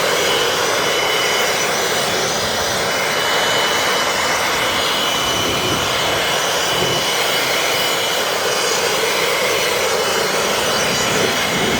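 Milwaukee compact cordless leaf blower running steadily at full blast: a loud, even whoosh of rushing air with a thin high motor whine, blowing light, fluffy snow off a flatbed tow truck's steel deck.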